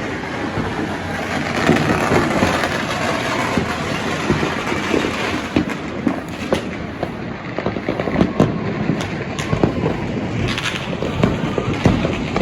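Neighbourhood fireworks and firecrackers going off in a dense, continuous crackle of rapid pops and bangs.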